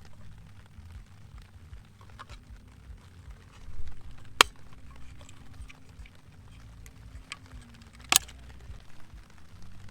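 A low steady rumble with scattered faint ticks, broken by two sharp clicks, one about four seconds in and a louder one about eight seconds in.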